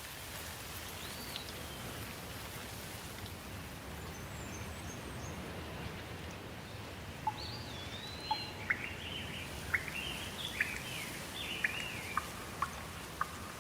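Steady rain falling, with songbirds calling over it: a single arching chirp early on, then from about halfway a busy run of quick chirps and short sharp notes.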